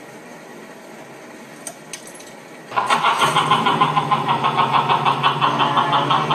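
Car engine starting abruptly about three seconds in after a quiet pause with a couple of faint clicks, then running with a rapid, even pulse.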